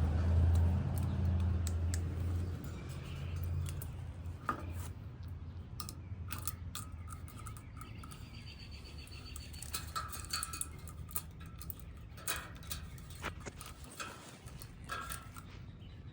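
A low rumble fades away over the first few seconds. It is followed by scattered light metallic clicks and taps from screws, tools and parts being handled during an AC fan motor replacement, with a few faint bird chirps.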